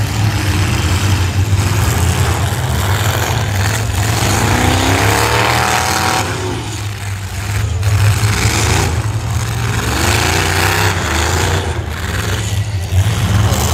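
Full-size demolition derby cars' engines running hard, with a rising rev about four seconds in and another around ten seconds, over a steady low engine drone. Scattered knocks of cars hitting each other.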